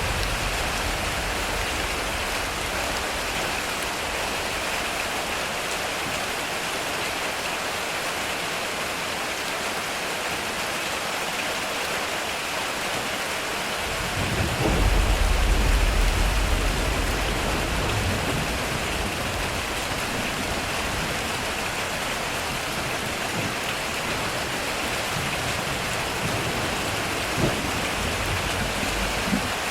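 Heavy rain drumming steadily on a metal roof, with a low roll of thunder swelling up about halfway through and dying away over a few seconds. Two brief sharp taps near the end.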